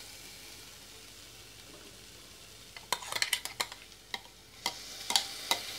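Onions frying in coconut oil in a steel pressure cooker, a faint steady sizzle. About three seconds in comes a quick run of metal clinks and taps as crushed tomato is tipped and scraped from a steel mixer jar into the pot. The sizzle grows louder near the end as the wet tomato hits the hot oil.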